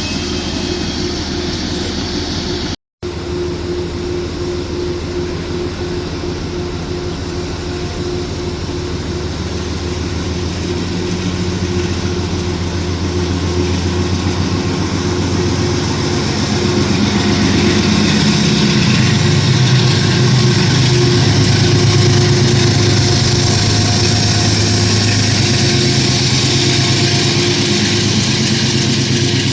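Train going by, with a diesel engine running under steady rolling noise. The engine note swells and shifts in pitch over the middle. The sound drops out briefly about three seconds in.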